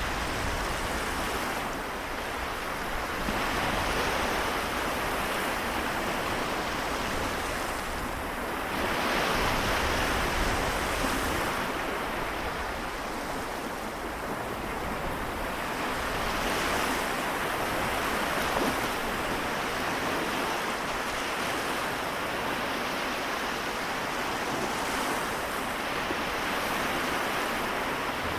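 Small waves on the Seto Inland Sea washing onto the shore, swelling and easing every few seconds, with some wind on the microphone.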